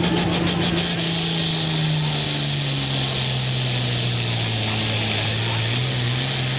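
A pulling tractor's diesel engine running at a steady speed, its pitch sagging a little in the middle and coming back up near the end.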